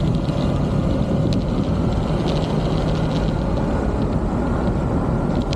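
Motorbike underway at road speed: a steady engine hum under continuous riding noise, with a few small ticks.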